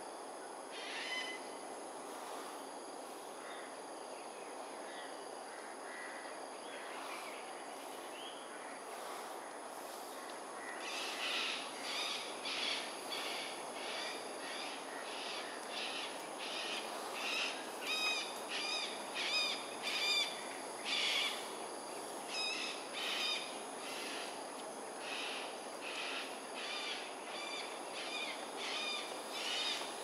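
A bird calling over and over in short, arched calls, about two a second. The calls start about a third of the way in and are loudest about two-thirds of the way through. A steady high-pitched tone and outdoor background noise run underneath.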